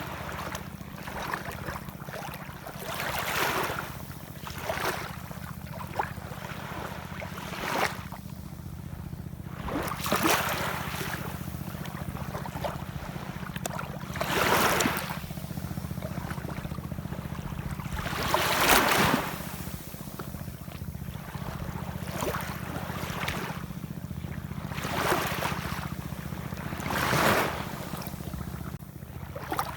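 Ocean waves washing in, with a swell of hissing surf every few seconds over a steady low rumble. The largest surge comes about two-thirds of the way through.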